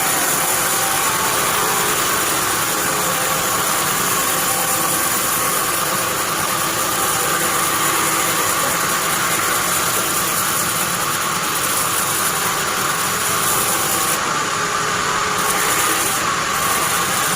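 Band sawmill running steadily, a loud even mechanical drone with a constant pitched hum and a hiss above it.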